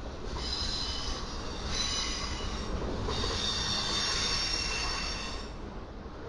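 Steel wheels of a passing intermodal freight train squealing against the rails over a steady rumble. The high squeal comes in three stretches and stops about a second before the end.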